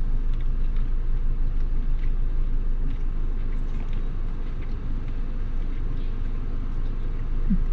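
A steady low rumble with a constant deep hum underneath and only faint, scattered small noises on top.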